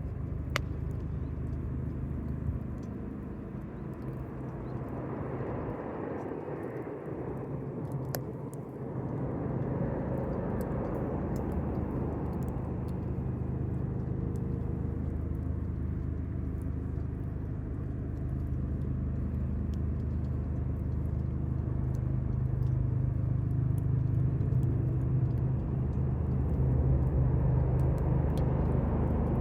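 Campfire with sparse faint crackles and pops from the burning wood, over a steady low hum that grows a little louder near the end.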